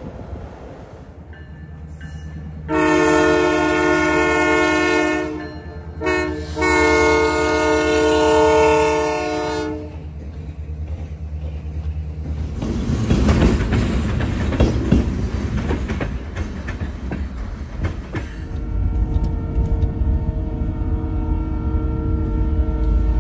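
Canadian Pacific diesel freight locomotives approaching and passing close by. Two long horn blasts sound, then the locomotives' engines and the clatter of the wheels go past loudly. A fainter, steady horn sounds again near the end.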